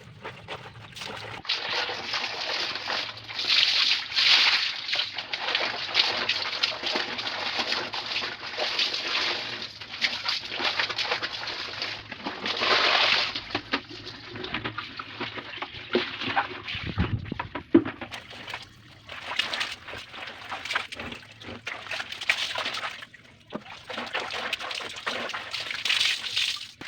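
Clothes being washed by hand in a basin of water: irregular sloshing and splashing in surges, with a single dull thump about two-thirds of the way through.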